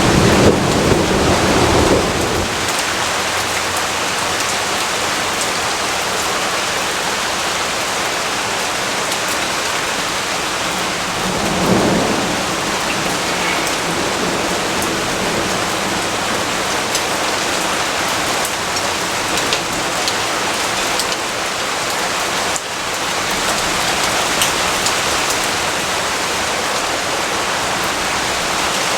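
Steady heavy rain with rolling thunder: a low rumble at the start that fades after about two seconds, and a shorter one around twelve seconds in.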